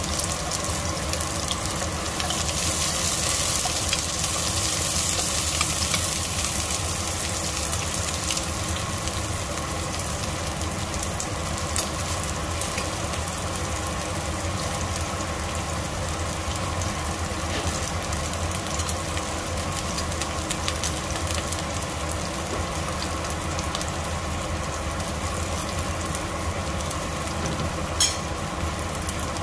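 Diced red onion, garlic and ginger sizzling in hot oil in a nonstick pot: a steady frying hiss, a little louder in the first few seconds. A single sharp click near the end.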